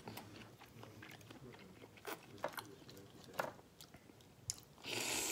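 Close-up mouth sounds of a person eating seafood-boil shrimp with their hands: wet chewing and lip smacks with several sharp clicks. A louder, longer wet sound comes near the end.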